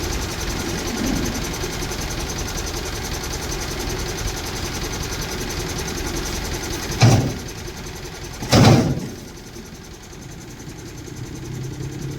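Heavy diesel engine running steadily, with two loud bangs about a second and a half apart, the second one longer. After the bangs the engine noise drops.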